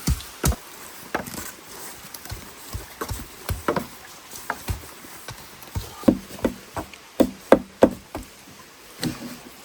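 Repeated blows of a tool on wood, chopping at an uneven pace of two or three strokes a second, the strongest strokes in the second half.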